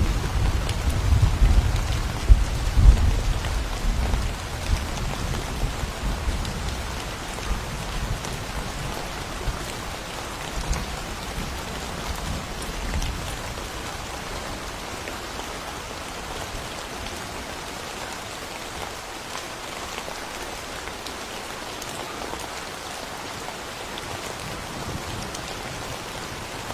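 Steady rain falling in a forest, with scattered drop ticks. A low thunder rumble fills the first few seconds, with two loud cracks about two and three seconds in, then fades, leaving the rain alone.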